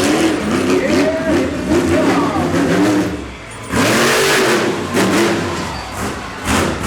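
Monster truck engine revving up and down, its pitch rising and falling repeatedly, with a louder rush of noise about four seconds in.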